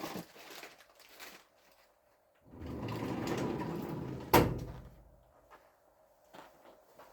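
Wheel-motor parts handled on a workbench: a rough sliding noise for about two seconds, ending in one sharp knock, then a few faint clicks.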